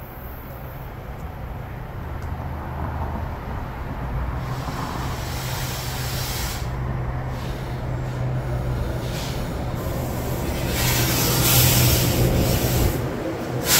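A New Jersey Transit electric train pulling into the station: a steady low hum that grows steadily louder, with hissing that comes and goes from about four seconds in and is loudest near the end.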